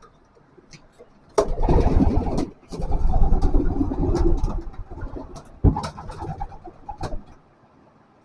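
Pigeons in a loft cooing, with loud bursts of rustling noise and a few knocks from about one and a half seconds in until about seven seconds in.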